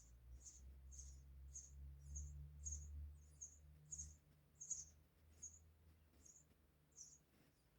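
Sparrow nestlings chirping faintly, a steady series of short high chirps about two a second, thinning out near the end. A low hum sits under the first half.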